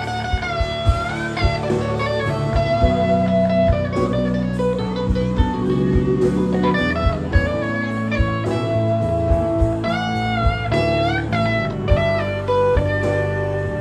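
Instrumental break in a song: a lead guitar plays a melody with bent, sliding notes over bass and a steady drum beat.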